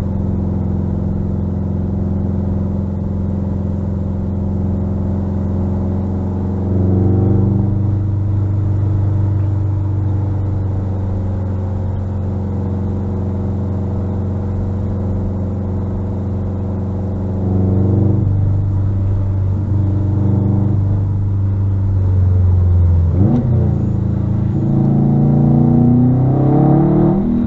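Subaru WRX STI's turbocharged 2.5-litre flat-four running through a muffler-delete exhaust, holding steady revs with changes in engine note about 7 and 18 seconds in. About 23 seconds in the pitch dips, then climbs steadily as the engine revs up under acceleration.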